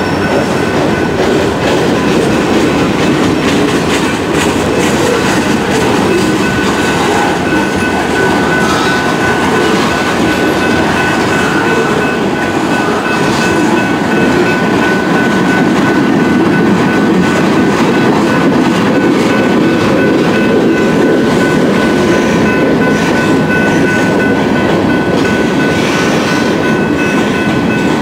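Freight train cars rolling steadily past, wheels clattering over the rails, with a steady high-pitched tone above the rumble.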